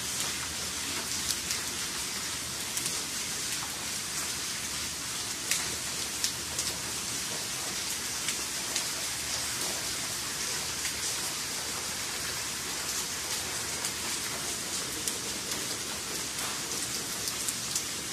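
Steady rain falling on wet paving and puddles: an even hiss with many small, sharp drop ticks scattered through it.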